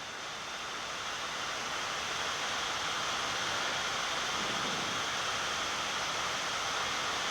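Steady rushing airflow noise on a Boeing 787 flight deck, growing louder over the first couple of seconds and then holding, as the speedbrakes are extended to slow the aircraft on approach.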